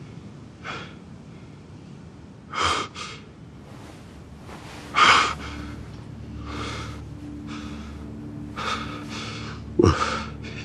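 A person gasping and breathing hard in sharp, uneven breaths, with the loudest gasps about halfway and near the end. A faint steady low hum sits underneath from about halfway on.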